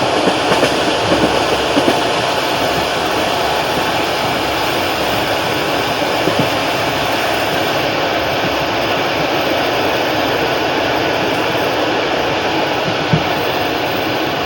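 Passenger train running along the track: a steady rolling rumble and rush of wheels on rail, with a few sharp knocks of the wheels over rail joints, several in the first two seconds and single ones about halfway and near the end.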